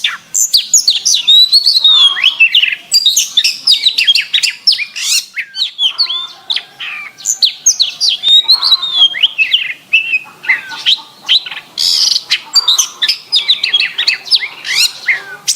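Domestic canary singing a continuous, clear, high song of rapid chirps and trills mixed with rising and falling whistled notes, with hardly a break.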